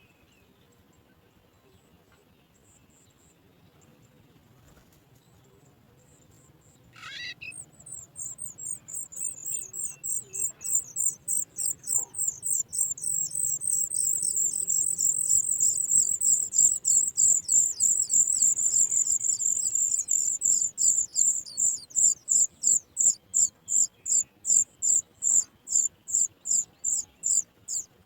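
Sooty chat nestlings begging: after a single short call about seven seconds in, a rapid run of high, thin chirps starts and keeps going, almost continuous at first and then pulsing about four times a second toward the end.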